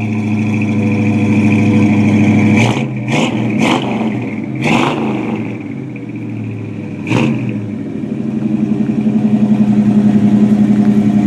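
Ford 302 V8 with dual exhaust running cold with the choke on, idling fast. The throttle is blipped several times in quick succession from a few seconds in, then the engine settles back to a steady, pulsing idle.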